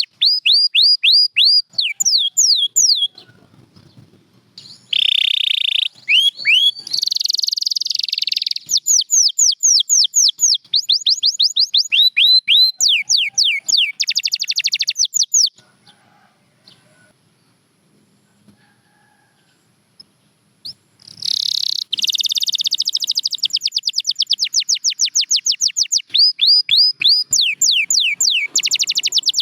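Domestic canary singing a long song of rapid trills: runs of fast-repeated, downward-sweeping high notes, with a couple of denser, buzzier passages. The song breaks off for about five seconds in the middle, then resumes.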